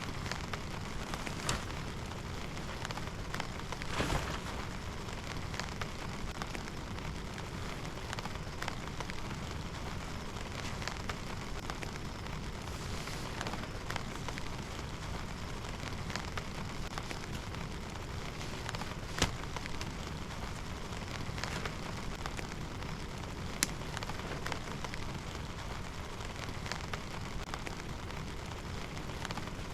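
Steady rain falling, with many scattered sharp taps of drops hitting a surface close by; two louder ticks stand out in the second half.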